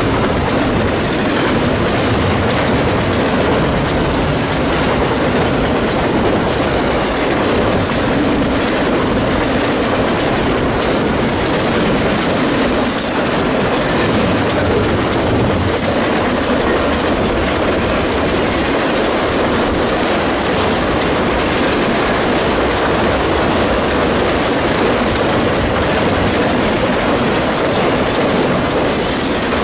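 Freight train cars rolling past at speed, a steady loud rumble with the wheels clicking over rail joints.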